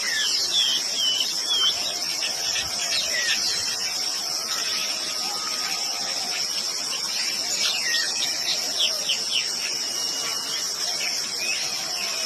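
Steady high-pitched insect chorus, like crickets or cicadas, with birds chirping in short, repeated calls over it.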